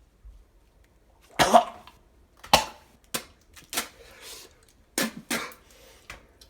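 A man coughing hard several times in a row, the first cough the loudest, after tasting microwaved Ivory soap.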